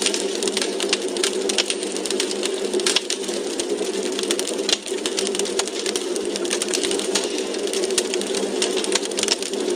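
Wood fire crackling in a fireplace: many quick, irregular pops and snaps over a steady rushing hiss.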